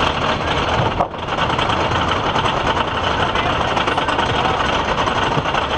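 Wooden roller coaster train running along its track, a loud, dense, rapid clatter with a brief dip about a second in.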